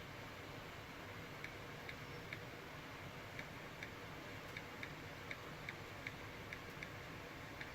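Faint, light clicks, irregularly spaced at roughly two a second, over a steady low background hum.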